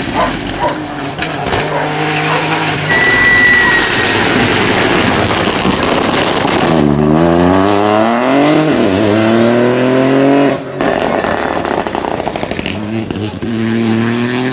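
Rally car engine at full throttle, the revs climbing steeply through the gears with a quick upshift about nine seconds in. The sound breaks off suddenly near eleven seconds, and engine sound comes back for the last few seconds.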